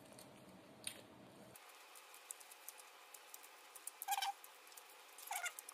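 Close-up chewing of crunchy dried anchovies (dilis): scattered small crisp crunches, with two louder crunches about four and five and a half seconds in.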